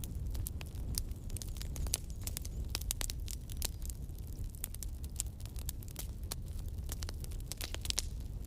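Wood campfire burning: irregular sharp crackles and pops, several a second, over a low steady rumble of the flames.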